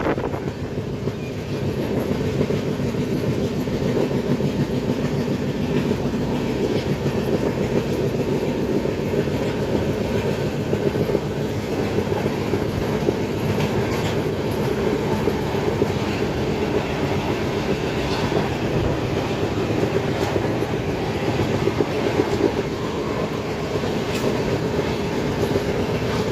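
Express passenger train running on rails: a steady rumble with the clickety-clack of wheels over rail joints now and then.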